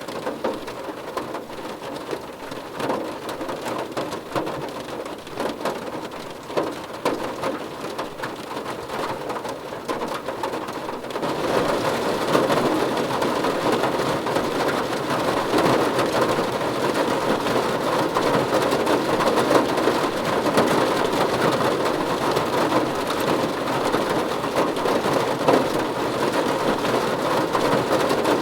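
Rain falling on a car's body, heard from inside the car as a dense, steady patter that gets heavier about eleven seconds in.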